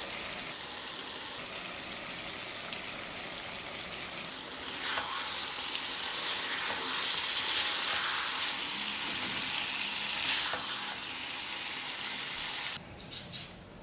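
Chicken pieces in a thick masala sizzling in a kadai, with a spatula stirring through them a few times. The sizzle cuts off suddenly near the end.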